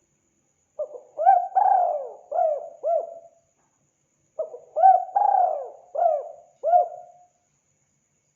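Spotted dove (tekukur) cooing: two phrases of about five or six notes each, a few seconds apart.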